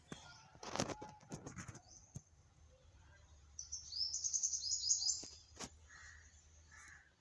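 A small bird chirping: a quick run of high, falling notes about halfway through, with a few short rustles near the start.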